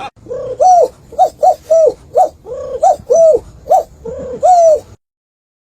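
An animal calling: about ten short, loud rising-and-falling calls in quick succession, which stop abruptly about five seconds in.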